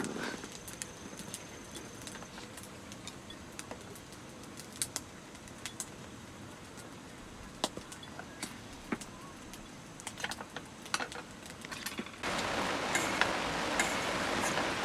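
Scattered light clicks and taps of utensils and dishes during a meal, over quiet background noise. Near the end a steady hiss comes in suddenly and stays.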